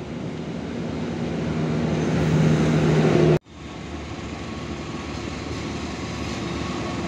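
A low hum at a railway platform swells for about three seconds and cuts off abruptly. Then comes the steady running sound of a diesel locomotive approaching with a passenger train.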